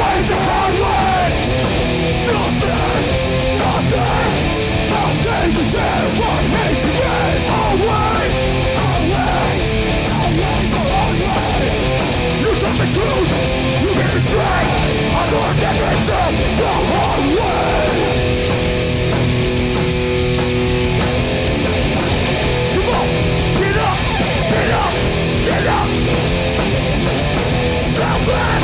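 A hardcore punk band playing live: distorted electric guitars, bass and drums at full volume, with sustained chords held for a few seconds about two-thirds of the way through.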